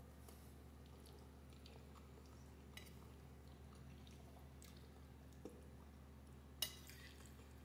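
Near silence over a low steady hum, with faint chewing and mouth clicks from someone eating pasta, and one sharper click about two-thirds of the way through.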